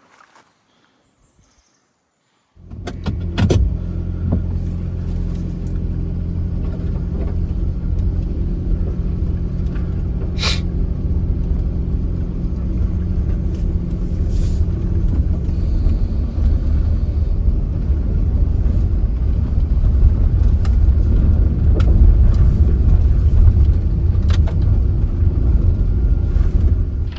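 Car engine rumble that comes in suddenly about two and a half seconds in and then runs steadily, growing slightly louder.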